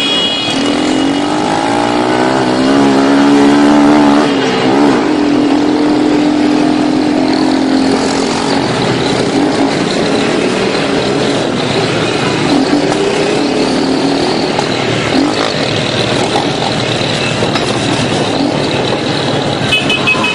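Motorcycle engines revving and running amid street traffic noise. The engine pitch climbs over the first few seconds, holds steady for a while, then blends into a dense mix of engine and road noise.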